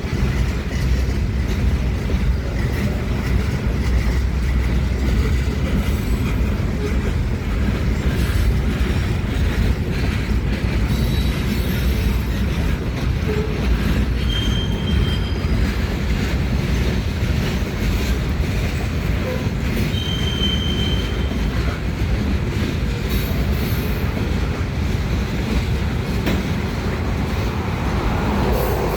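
A freight train of loaded gravel cars rolling past: a steady heavy rumble of wheels on rail, with brief high wheel squeals about halfway through and again a few seconds later.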